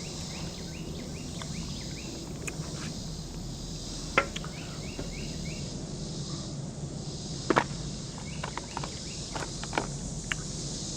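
Insects chirping in short repeated trills over a steady outdoor background hum, broken by a few sharp clicks and taps, the loudest about four seconds in and again two quick ones past seven seconds.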